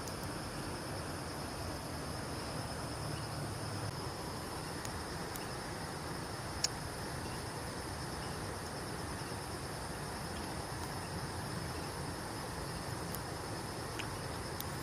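Insects chirring steadily in a continuous high-pitched band, with one sharp click about six and a half seconds in.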